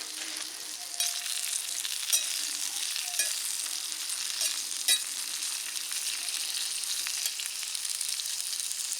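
Eggs frying in a pan over a campfire: a steady sizzle with a few sharp pops of spitting fat in the first five seconds.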